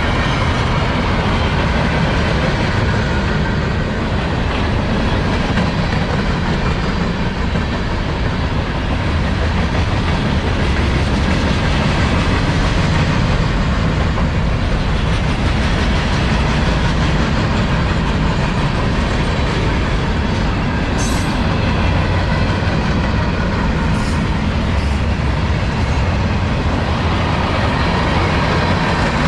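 Long freight train rolling past at speed: a steady, loud rumble of steel wheels on rail, with clickety-clack and a few sharp clicks.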